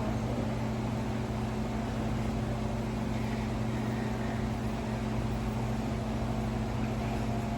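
Steady low mechanical hum: an even drone with a few fixed low tones that does not change.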